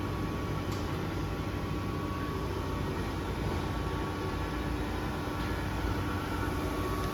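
Grisetti RU 2000 hydraulic cylindrical grinding machine running, a steady even hum with a few constant whining tones. No knocks or rattles: the machine runs smoothly, with no noise from the wheel head or the table.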